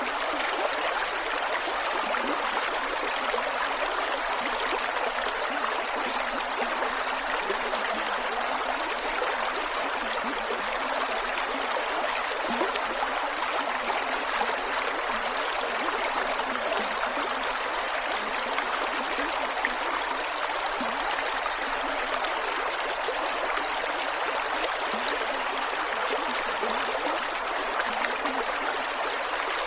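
Creek water flowing over rocks: a steady rush with small gurgles and trickles.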